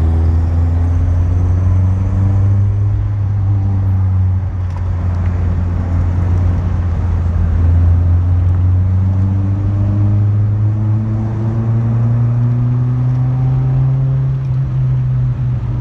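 Renault Clio 1.8 16V four-cylinder engine running steadily under way, its pitch drifting gently and rising slowly over the last few seconds.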